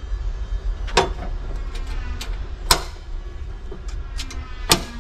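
Three sharp metal clanks, each a second and a half to two seconds apart, with lighter clicks between them, as a powder-coated steel tailgate table is folded and latched back into place. A steady low rumble runs underneath.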